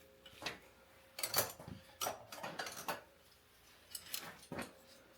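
Faint metal clinks and taps of hand tools and small parts during oil burner nozzle and strainer service, about seven sharp clicks at uneven intervals over a faint steady hum.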